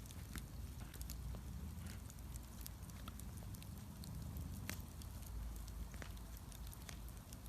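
Wood bonfire burning with a low steady rumble, crackling and popping with scattered sharp snaps.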